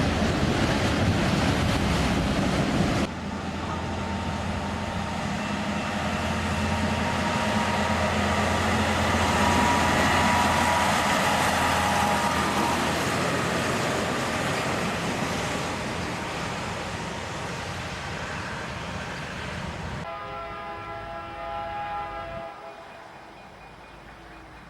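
Train rolling past, with a steady low engine hum under the noise of the wheels. Near the end the sound changes abruptly, and a locomotive horn sounds more faintly, several tones at once in a chord.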